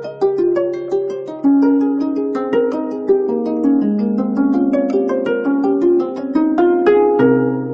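25-string gayageum (Korean zither) played solo: a flowing run of plucked notes, several a second, each ringing on over a sustained lower note.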